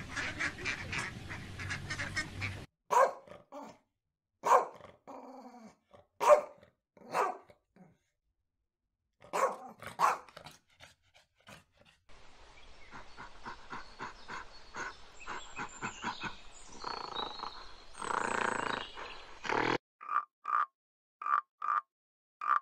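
A sequence of different animal calls, one recording after another: first spaced single calls like dog barks, then a continuous rough call that grows louder before stopping, and near the end a regular run of short croaks, about one and a half a second, as of a frog.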